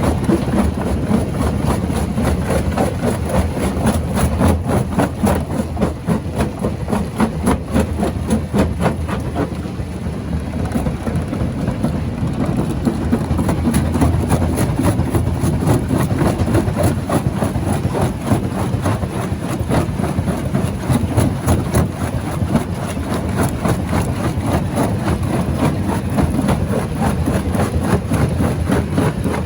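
Rock crusher running under load: a heavy machine drone with a dense, irregular stream of knocks and crunches as stone is broken.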